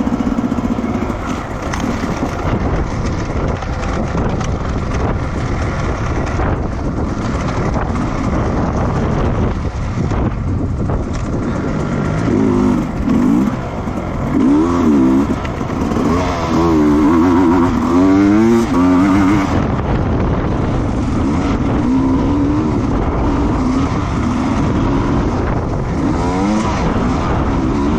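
Racing motorcycle engines running hard with a constant rush of wind and road noise; about halfway through the engine note warbles up and down quickly several times as the revs rise and fall.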